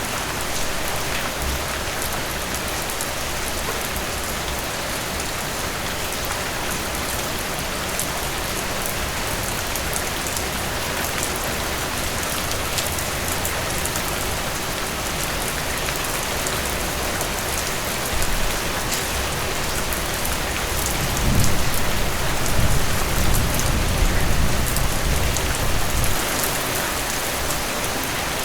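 Heavy rain falling steadily. About two-thirds of the way through, a low rumble of thunder rises, then dies away shortly before the end.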